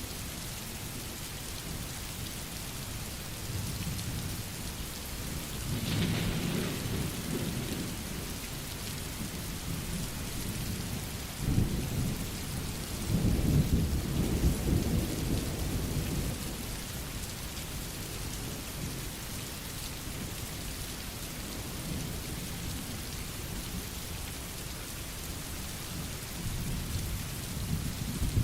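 Steady rain falling, with thunder rumbling low. There is a short rumble about six seconds in and a longer, louder rolling one from about eleven to sixteen seconds in.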